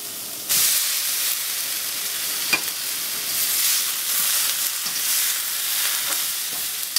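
Broccoli florets dropped into a hot wok of frying chicken set off a loud sizzle about half a second in. The sizzle keeps on steadily as the broccoli is stir-fried, with a spatula tapping against the wok now and then.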